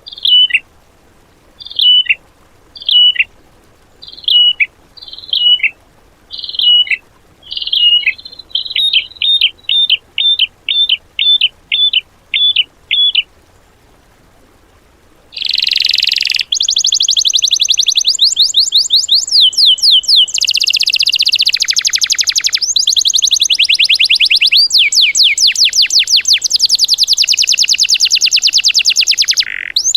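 Recorded songbird training song. A bird's call drops in pitch and repeats about once a second, speeds up to about two a second, then stops a little before halfway. After a short pause, a louder, dense rapid-fire song of very fast repeated sweeping notes starts and keeps going.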